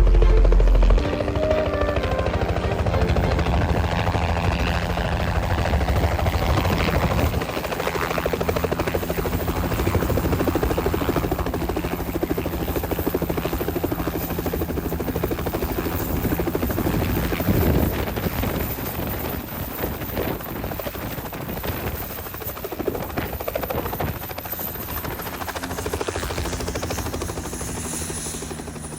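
Helicopter running with a steady hum, slowly growing quieter toward the end. Music with heavy bass cuts off about a second in.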